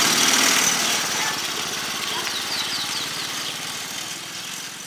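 Motorbike engine running with an even firing beat, growing steadily fainter.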